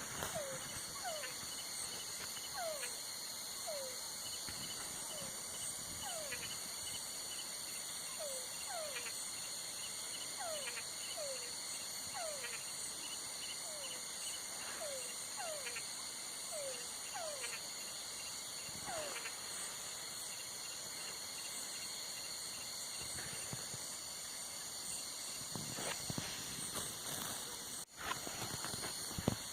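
Night chorus of crickets with a steady high trill, over which frogs give short downward-sliding calls, one or two a second, often in pairs. The frog calls stop about two-thirds of the way through, leaving the insect trill and a few faint clicks.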